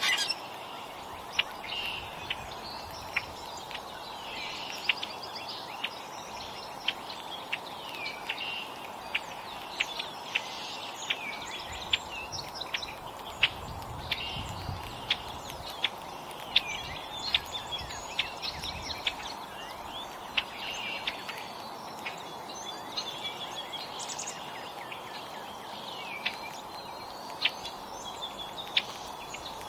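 Small songbirds chirping and calling at a feeder, with frequent sharp clicks over a steady background hum.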